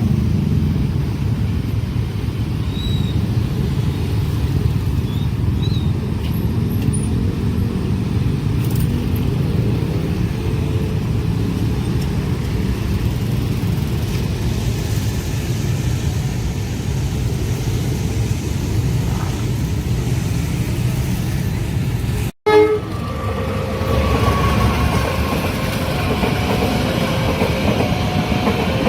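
Long train passing a level crossing, its cars making a steady heavy rumble. After a cut about 22 s in, a horn note falls in pitch and the crossing alarm sounds in short repeated tones, about one a second.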